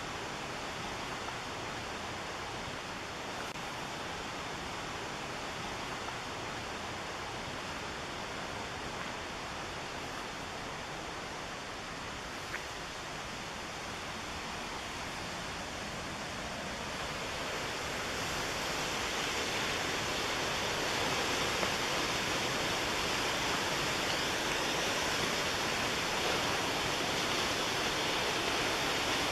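Rushing water of a fast mountain river, a steady roar that grows louder about two-thirds of the way through and then holds.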